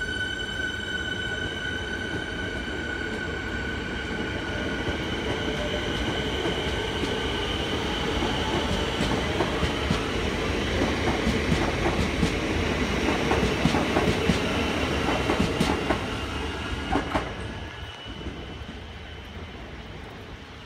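Siemens Nexas electric train running past: a high, steady electric whine fades over the first few seconds, then wheels clatter and click over the rail joints, growing louder through the middle. The sound dies away after about 17 seconds as the last car goes by.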